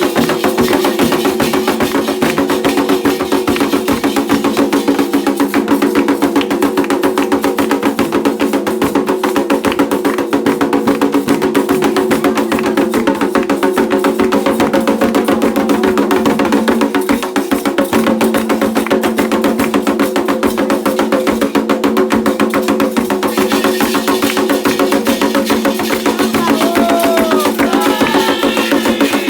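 Candomblé ritual drumming: atabaque hand drums keeping a fast, dense rhythm, with voices singing over it near the end.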